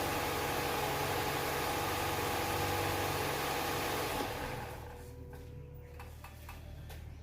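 Toyota 1NZ-FE four-cylinder engine running steadily; about four seconds in the sound drops off sharply, leaving a low hum and a few light clicks.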